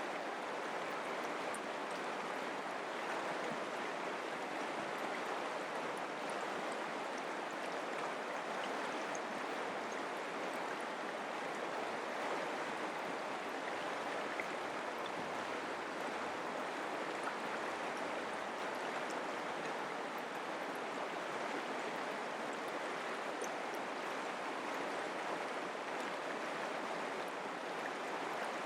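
Mountain creek flowing: a steady, even rush of running water.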